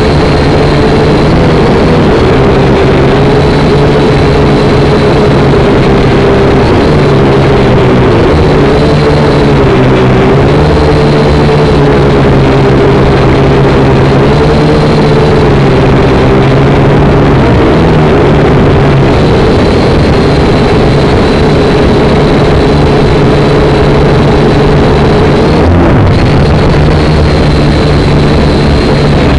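Syma X5C quadcopter's four small brushed motors and propellers whining in flight, loud and unbroken, the pitch wavering up and down as the throttle shifts.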